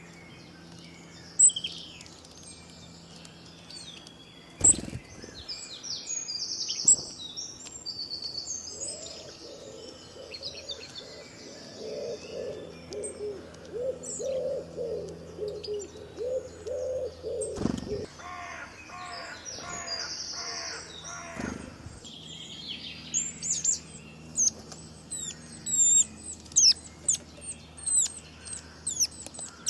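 Several birds singing and chirping: high quick chirps throughout, a lower warbling call in the middle, and a dense run of sharp chirps near the end.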